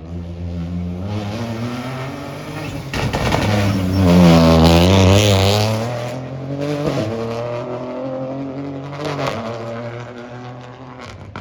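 Rally car passing at speed, its engine note rising as it approaches and loudest about four to five seconds in. The note dips and climbs again as it goes by, then fades away.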